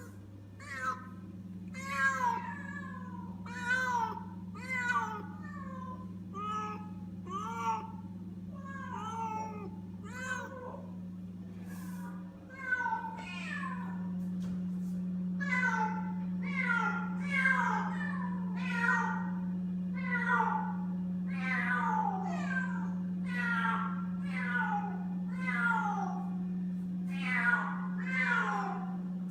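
Feral kittens meowing over and over in fright, high calls that slide down in pitch, about one a second at first and closer together and louder in the second half. A steady low hum runs underneath.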